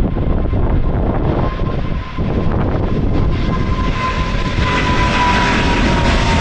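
Twin-engine jet airliner (Boeing 777-200ER) taking off, its engines' whine sliding slightly down in pitch while the jet roar builds over the last couple of seconds. Strong wind buffets the microphone throughout.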